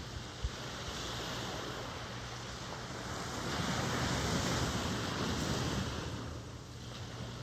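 Ocean surf: a wave swells and washes in about halfway through, loudest in the middle, then fades back to a steady background wash. A brief low bump near the start.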